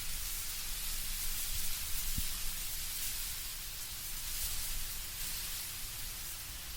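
Wind blowing through autumn trees with leaves rustling, a steady hiss-like noise with a low rumble underneath.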